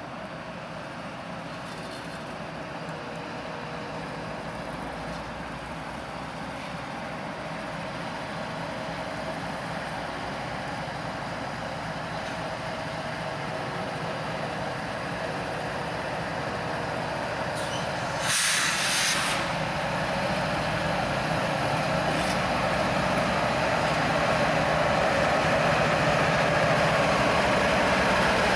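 A train approaching with its rumble and hum growing steadily louder, with a sharp hiss of about a second roughly two-thirds of the way through.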